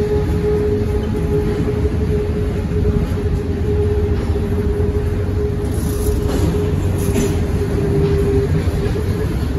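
Freight cars of a passing manifest train rolling by with a steady heavy rumble, over which a continuous high wheel squeal holds one pitch. A couple of faint clanks come about six and seven seconds in.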